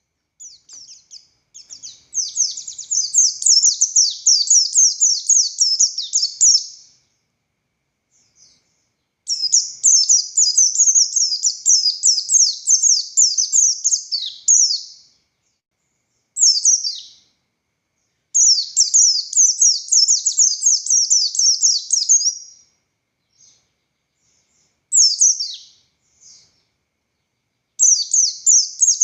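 Pleci buxtoni white-eye singing in long, rapid chattering phrases high in pitch, each running a few seconds, with short pauses and a few brief single calls between them.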